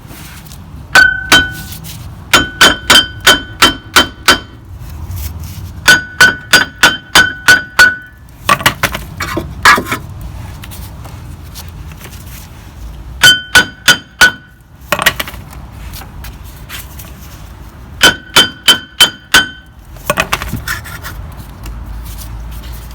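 A hammer striking steel brake parts in quick bursts of ringing metallic blows, about four a second, with short pauses between the bursts.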